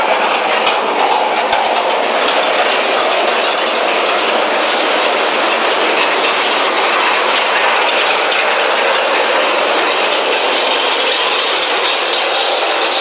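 Loud, steady din of a bonfire-night street procession, with many quick cracks and clicks running through it, thickest in the first couple of seconds.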